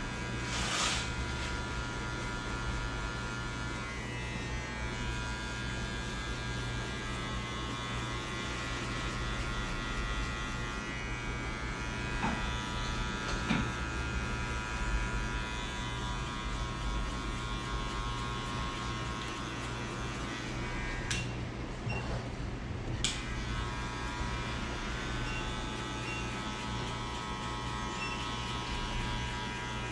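Electric hair clippers running with a steady buzz as they cut a fade, with a few faint clicks; the buzz dips briefly about two-thirds of the way through.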